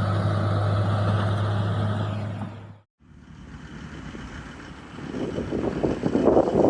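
Excavator's diesel engine running steadily with a low hum, fading out about three seconds in. After a moment of silence, a rougher, uneven machine noise builds up and grows louder toward the end.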